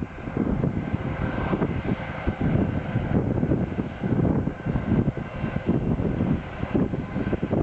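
Airliner engines running, a steady rushing noise with a faint high whine, heavily buffeted by wind on the microphone.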